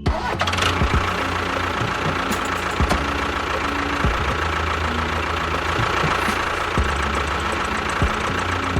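An engine running steadily, with a dense, even mechanical noise.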